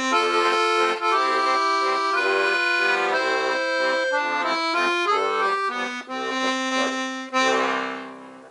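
Weltmeister Monte piano accordion with four-voice LMMM reeds and helikon bass, playing a tune: a right-hand melody over repeating left-hand bass notes and chords. It ends on a held final chord that fades away near the end.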